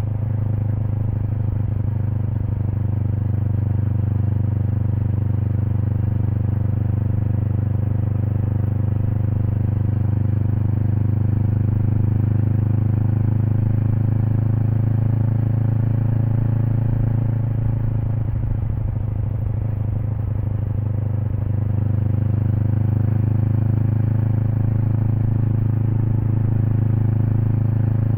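Kawasaki Eliminator SE's 398 cc parallel-twin engine with a BEAMS Power Header W aftermarket exhaust, running steadily while riding at a constant pace. The level dips a little about two-thirds of the way through. The sound is picked up close to the muffler.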